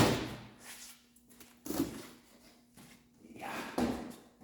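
Light handling knocks of objects being moved, with one short, sharp knock a bit under two seconds in, over a faint steady hum.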